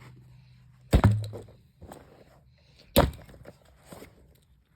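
Two loud crashes about two seconds apart as the running ceiling fan, its blades bent, mangles itself. The fan motor's low hum dies away after the first crash.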